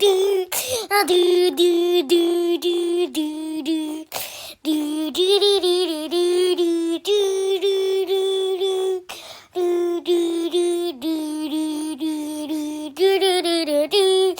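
A high voice singing a repeated 'do do do' tune in short, even syllables, about three a second, on a few notes with occasional slides. It breaks off briefly twice.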